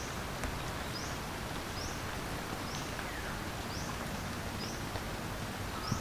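Outdoor ambience with a small creature's short high chirp repeating steadily about once a second over a constant background hiss. There is one brief falling call midway and a faint click or two.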